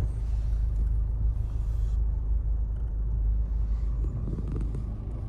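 Steady low rumble of a car's engine and road noise heard from inside the cabin while it moves in slow traffic.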